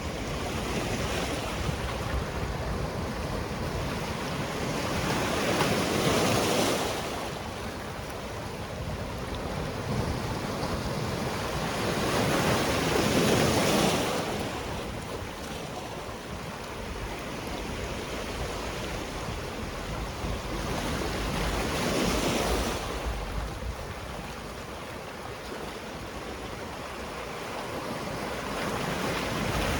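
Sea waves breaking and washing on the shore, swelling and fading in three big surges several seconds apart, with another building near the end.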